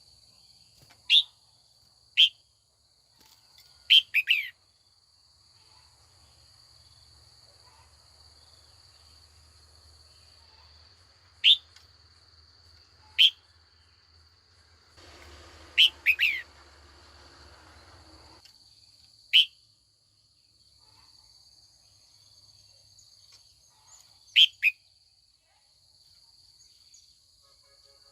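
Female red-whiskered bulbul giving short, sharp, loud calls, singly or in quick pairs, about a dozen spread irregularly through the stretch. A faint steady high-pitched tone runs beneath, and a soft hiss comes in for about three seconds around the middle.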